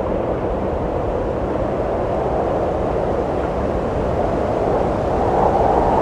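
Steady wind blowing, a dense rushing noise that swells and rises a little in pitch near the end.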